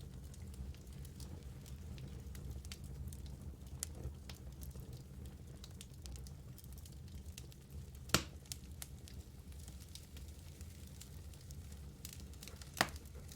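Wood fire burning in a fireplace: a steady low rumble of flames with scattered light crackles and two sharper pops, about 8 seconds in and near the end.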